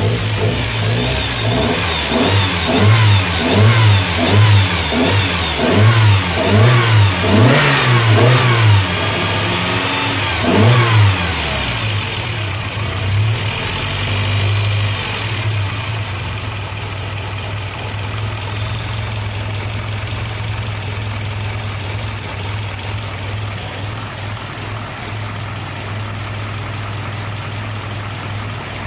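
Lancia Fulvia's narrow-angle V4 engine, fitted with a new stainless-steel exhaust manifold, blipped repeatedly in quick rising-and-falling revs for roughly the first ten seconds, then settling into a steady idle.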